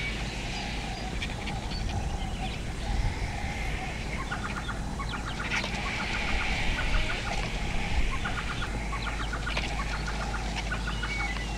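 Birds calling in repeated runs of rapid, clucking chatter, busiest in the middle stretch, with scattered higher chirps.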